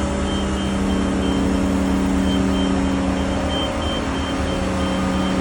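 Crane's engine running steadily at a constant pitch while lifting the rooftop unit, with a faint high tone pulsing on and off above it.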